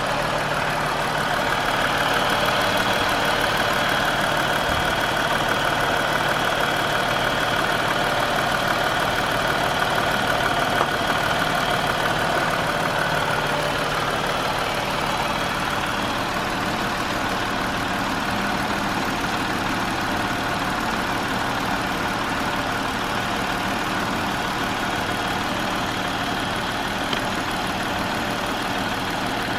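A 2020 Jeep Wrangler's engine running stationary, with a steady mechanical noise over the idle that nothing switched on in the cabin accounts for, the noise that comes and goes every 45 to 50 seconds. It is loudest over the first half and eases about halfway through.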